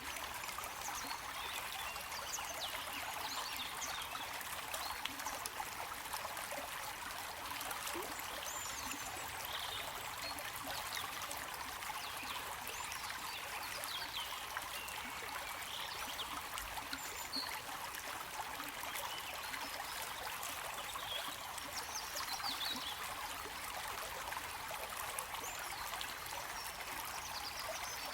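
Flowing water trickling steadily, with small bubbling splashes throughout.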